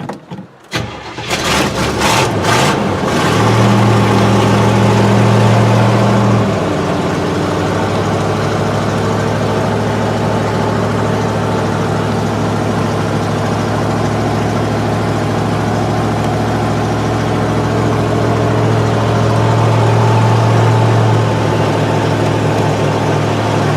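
1969 Buick Skylark's carbureted engine starting after sitting six months. It catches about three seconds in, runs at a faster, louder idle for a few seconds, then settles into a steady idle with a brief slight rise near the end.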